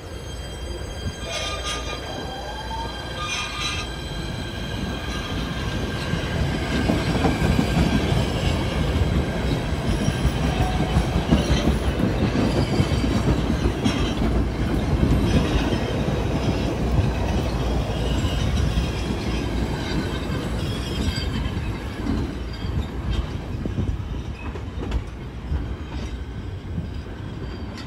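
PATH Kawasaki PA-5 electric train pulling out. A rising whine as it starts off, then its wheels run on the rails with a heavy, steady rumble that builds through the middle and fades as the train pulls away near the end.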